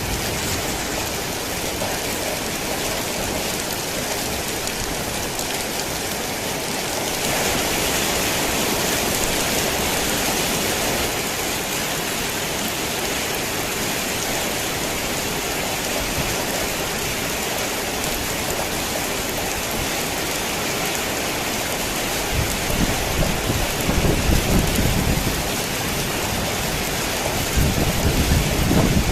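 Heavy rain falling on a tin roof, a steady hiss that gets a little louder about a quarter of the way in. Two low rolls of thunder rumble under it near the end.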